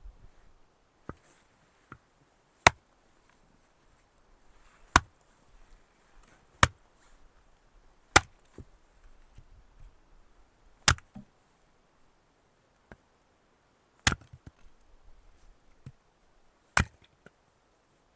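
Wood being chopped: seven sharp, separate blows, irregularly spaced about two seconds apart, with a few lighter taps between them.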